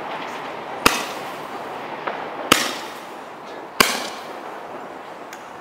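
Fireworks going off: three loud, sharp bangs, each with a short ringing tail, a little over a second apart, with a couple of fainter pops between them over a steady background rush.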